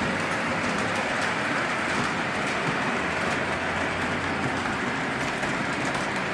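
Model passenger train running along the track: a steady rolling rumble and hiss with faint scattered clicks from the wheels.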